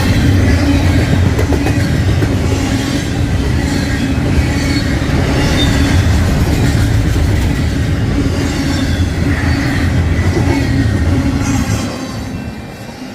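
Double-stack container freight train passing close by: a steady heavy rumble of wheels on rail with a continuous hum. It drops off sharply about twelve seconds in.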